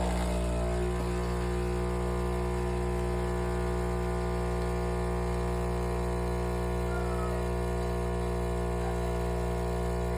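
Philips Series 2300 espresso machine running with a steady, even hum rich in overtones, which switched on abruptly just before and does not change in pitch or level.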